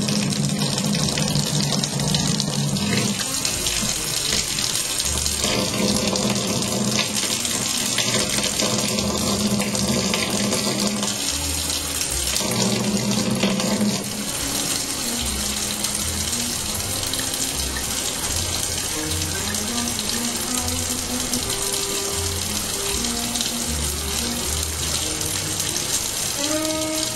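Kitchen faucet running a thin stream into a stainless steel sink, a steady hiss of water, with background music playing over it.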